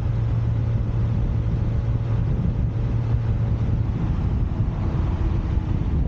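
2017 Honda Accord Coupe V6 driving, heard from a camera mounted outside on the back of the car: a steady low drone with road and wind noise, the drone easing off about four seconds in.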